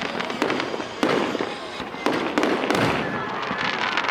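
Fireworks going off: a quick run of sharp bangs, several to a second at times, with crackling between them.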